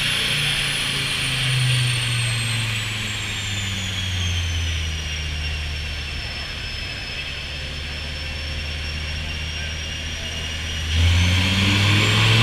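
Vehicle engine with a high whine, winding down in pitch as it slows, running steady at low revs, then revving up sharply and louder about eleven seconds in.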